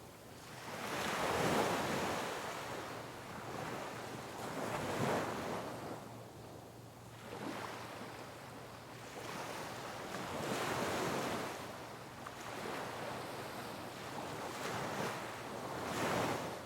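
Sea waves breaking on rocks, surging and washing back in about five or six swells, the biggest about a second in and a sharp crash near the end.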